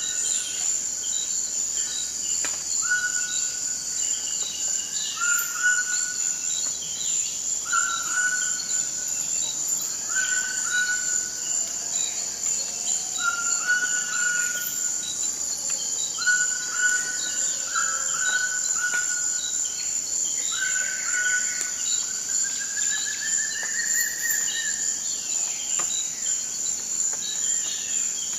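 Forest ambience: a steady, high insect drone throughout, with a bird repeating a short call about every two seconds and giving one longer rising call a little past the two-thirds mark.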